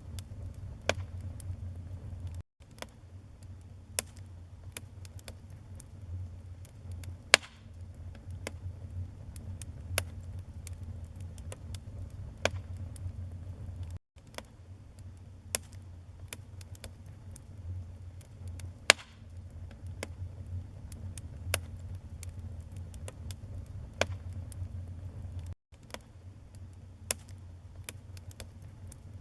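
Wood fire burning in a fireplace: irregular sharp crackles and pops from the burning logs over a low, steady rumble of the flames. The sound cuts out for an instant three times.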